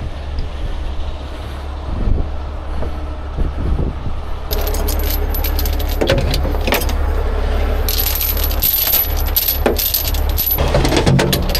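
A heavy tow truck's engine runs steadily. From about four and a half seconds in, metal clinks and rattles from chain and rigging being handled.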